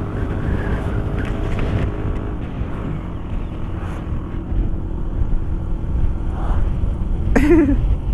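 Honda CB300's single-cylinder engine running at highway speed under a rider and passenger, with a steady engine note and road and wind rumble; the note dips briefly a few seconds in. A short wavering tone sounds near the end.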